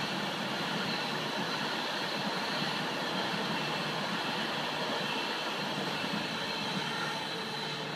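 Virgin Class 390 Pendolino electric train passing along the platform: a steady rush of wheels on rail with a faint high whine over it.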